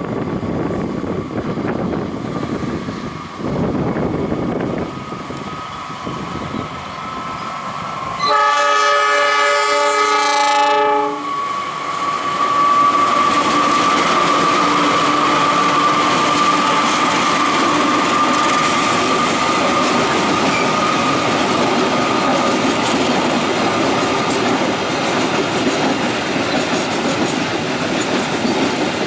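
CC 206 diesel-electric locomotive passing with its engine running, then sounding its horn, a chord of several tones lasting about three seconds, about eight seconds in. After the horn, the flat wagons roll by with steady wheel noise and a high, steady squeal from the wheels on the curve.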